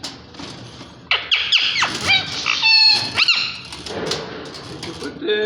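Ring-necked parakeets calling: a run of loud, harsh calls that swoop sharply up and down in pitch, starting about a second in and dying away after about three and a half seconds.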